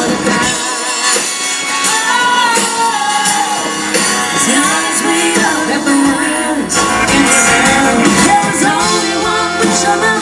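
Live band music with a singer, a song played from start to end of this stretch without a break.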